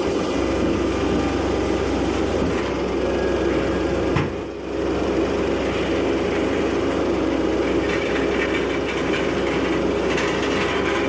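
Mobile car baler's engine and hydraulics running steadily with a constant drone. There is a single knock about four seconds in, followed by a brief drop in level.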